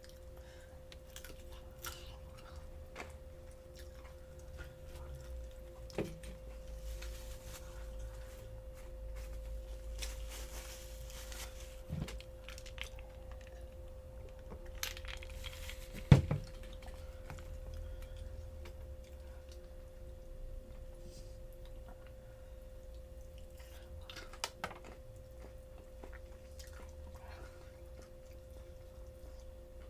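Close-miked chewing and biting of crispy fried chicken, with occasional sharp clicks or knocks, the loudest about sixteen seconds in, over a steady electrical hum.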